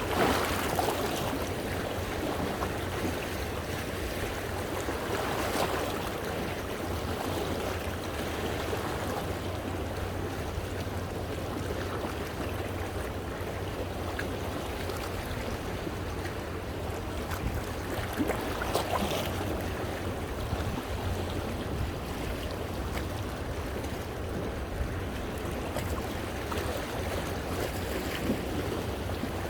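Sea waves washing in over coastal rocks, a continuous splashing wash with a few stronger surges: one right at the start, one about five seconds in, and one about nineteen seconds in. A steady low rumble runs underneath.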